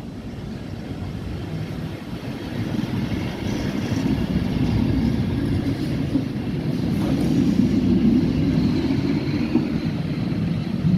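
A vintage red SBB 'Red Arrow' (Roter Pfeil) electric railcar running slowly past on the rails, with a steady rumble of wheels and running gear. The rumble builds as the car comes alongside and is loudest about two-thirds of the way through.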